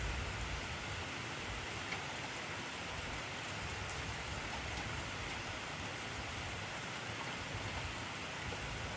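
Heavy rain falling steadily: a dense, even hiss of drops with no single sound standing out.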